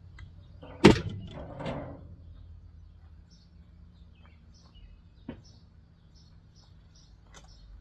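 A single sharp knock about a second in, like a part being set or dropped down during scrapping of an air conditioner, followed by a brief scrape and a couple of light clicks. Birds chirp faintly through the rest.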